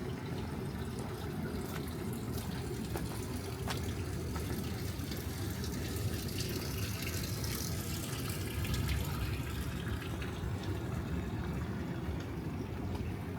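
Steady rain falling, with scattered sharp ticks of drops striking nearby surfaces; a hiss swells and fades in the middle.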